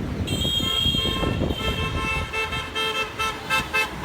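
Vehicle horn honking in street traffic: one held honk starting about a quarter second in, then a run of short, quickening toots, over a low rumble of engines.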